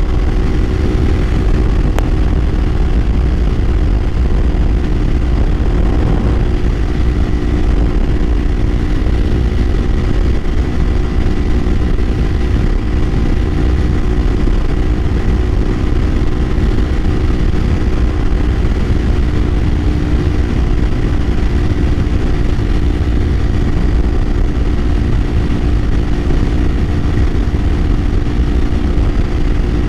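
Kawasaki Ninja 500's parallel-twin engine running at a steady cruising speed, its note holding level without revving up or down, under heavy wind rush on the microphone.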